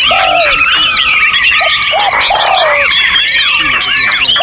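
Many songbirds singing over one another in a dense chorus of overlapping whistles, chirps and trills, with low arching hoot-like notes repeating about once a second. A long steady high whistle runs underneath and stops shortly before the end.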